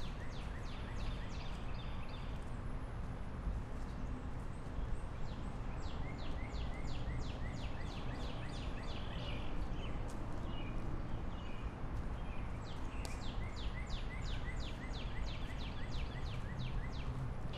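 Outdoor ambience: a steady rumble of background noise with birds singing, in repeated runs of quick high descending notes and small chirps, strongest near the start, in the middle and again toward the end.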